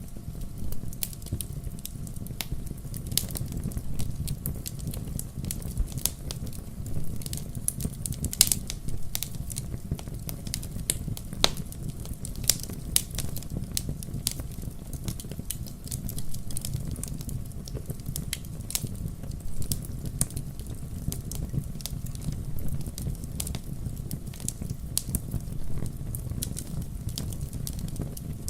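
Burning firewood crackling, with many irregular sharp pops and snaps over a steady low rumble.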